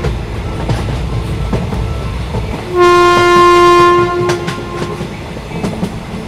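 Train horn sounding one long blast about three seconds in, over the rumble and clickety-clack of a moving train's wheels on the rails.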